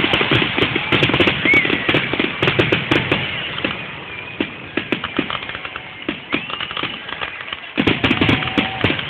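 Fireworks crackling: a dense run of rapid sharp pops that thins out midway, then a fresh, louder barrage of pops breaks out near the end.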